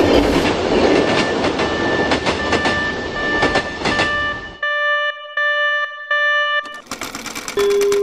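Train passing with wheel clatter, a sound effect laid over a cartoon level crossing, with a steady ringing tone above it. The train noise cuts off about four and a half seconds in, leaving the tone alone for about two seconds, then the noise comes back.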